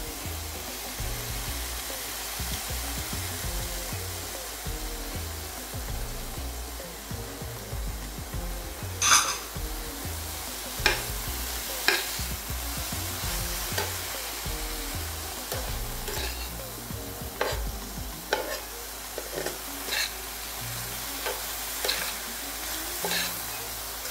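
Chopped vegetables sizzling in hot oil in a pan while being stirred. A spatula knocks and scrapes against the pan now and then, loudest about nine seconds in.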